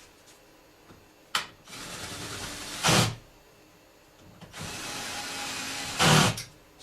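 A handheld power tool driving fasteners: two runs of about a second and a half each, each ending in a louder burst as the fastener tightens, with a sharp click a little over a second in and another near the end.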